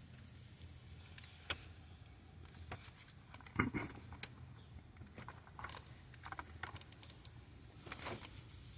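Hand tools clinking and tapping on metal during the starter replacement: scattered light clicks, with the loudest clatter about three and a half seconds in.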